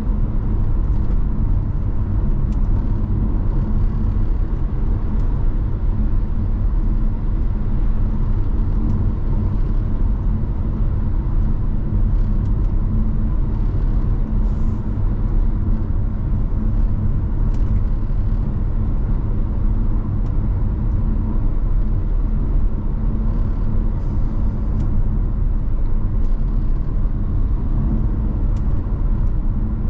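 Steady road and engine rumble of a car driving, with a few faint ticks scattered through it.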